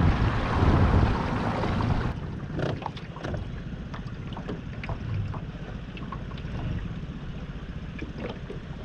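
Wind and water rushing past a small boat under way. About two seconds in, the sound drops abruptly to a quieter low rumble with small scattered splashes and water lapping.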